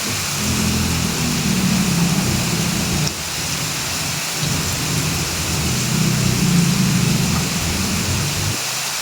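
Heavy rain falling in a steady hiss, with a low rumble that swells twice underneath it.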